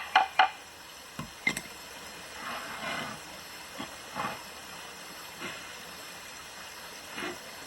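Three quick sharp knocks, then two more a second later, followed by a soft rustle and a few scattered fainter knocks, like objects being handled and set down.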